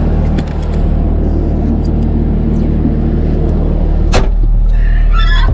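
Vehicle engine running steadily, with a sharp click about four seconds in and a short wavering squeal near the end.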